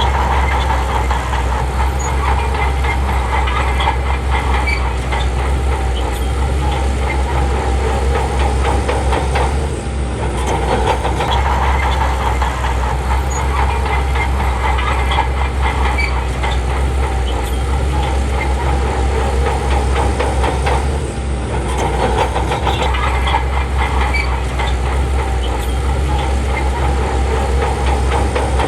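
Crawler bulldozer working: its diesel engine runs steadily under load while the steel tracks clank. The sound dips briefly twice along the way.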